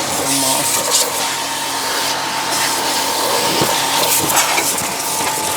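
Portable electric pressure washer running, its motor humming steadily while the water jet sprays into the tyre and wheel arch.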